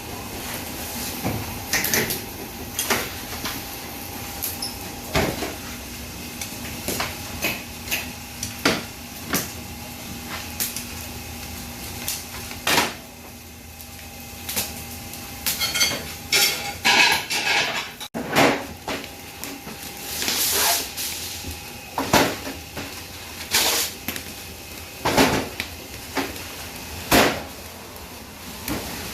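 Kitchen and dining-room clatter: a string of separate knocks and clinks, like dishes, pans and cupboard doors being handled, over a steady hum.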